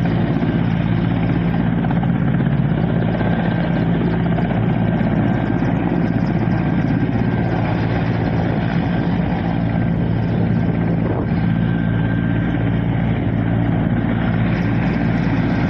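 Helicopter running steadily close by, its rotor and engine a constant loud drone.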